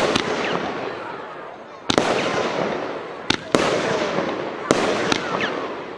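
A 13-shot firework battery, the Argento 'Violetta', firing: about six sharp reports come at uneven intervals, two of them in quick pairs, and each is followed by a spread of crackling that fades away.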